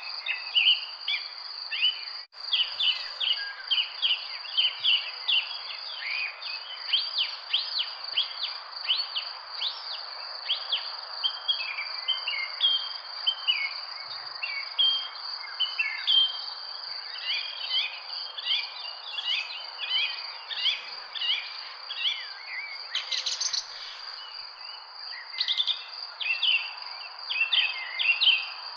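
Many birds chirping and calling in quick, overlapping succession over a steady, high-pitched insect drone, with the sound dropping out for an instant about two seconds in.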